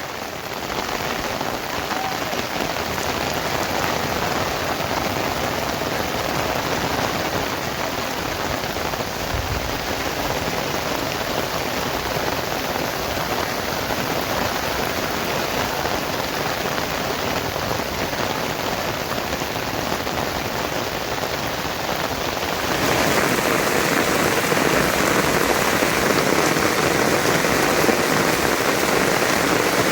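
Steady rain falling, an even hiss of drops. About three-quarters of the way through it becomes louder and fuller.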